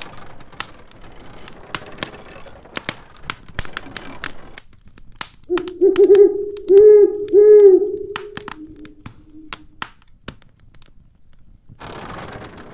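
Wood fire crackling in a fireplace with sharp pops, then a low hollow hooting tone held for about four seconds that swells three times in quick succession. Near the end a faint rushing of storm wind comes in.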